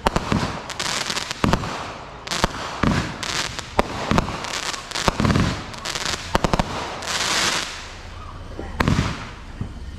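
Consumer fireworks going off in quick, irregular succession: sharp bangs and crackling pops, with a hissing burst about seven seconds in.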